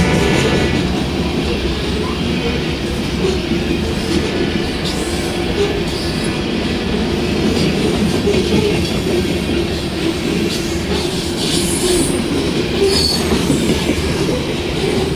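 Covered hopper cars of a freight train rolling past close by: a steady rumble of steel wheels on rail, with a few brief high wheel squeals about two-thirds of the way through.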